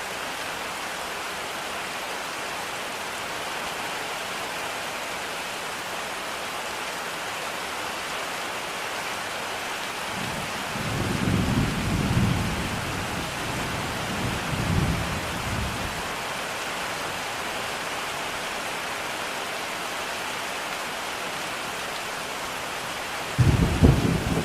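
Steady heavy rain. Thunder rumbles in low for several seconds from about ten seconds in, and a louder clap of thunder breaks near the end.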